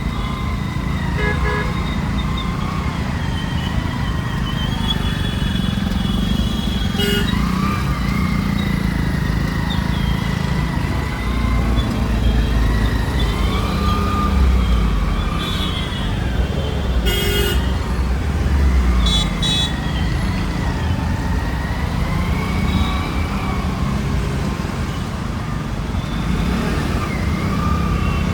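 Road traffic heard from a moving motorcycle: a steady low rumble of engine and road noise, with a siren wailing slowly up and down and several short horn honks, the loudest a third of the way in and past halfway.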